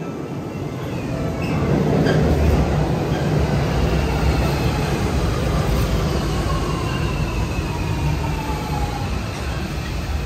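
A train running along its track with a steady rumble, and a faint whine that slowly falls in pitch in the second half.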